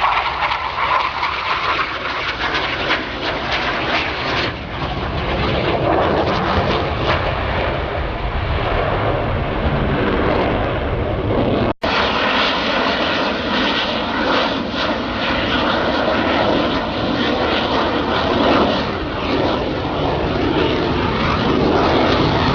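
Aircraft engine noise from planes flying a display, loud and steady throughout, with a brief break about halfway through.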